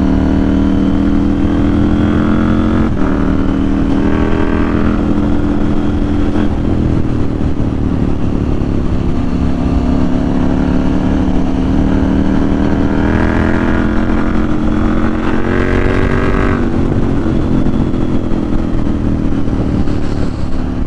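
KTM 790 Duke's parallel-twin engine pulling hard. The pitch climbs, dips sharply at upshifts about three and six and a half seconds in, then rises slowly until near the end, when it eases off. Wind noise rushes underneath.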